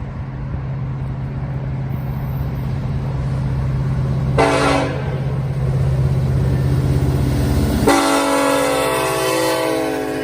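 Diesel freight locomotive drawing closer with its engine running, sounding its multi-note air horn: a short blast about four seconds in, then a long blast from about eight seconds on.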